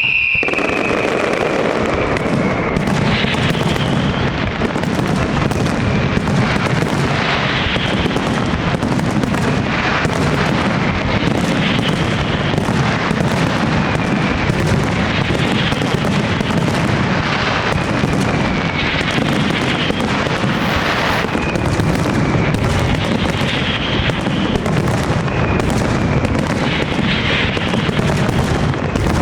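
Dense, continuous fireworks barrage of a large castillo display: shell bursts and bangs overlapping without a break, with a few short falling whistles.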